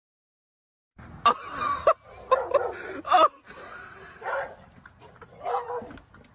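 A dog vocalizing in a string of short, uneven calls, starting about a second in.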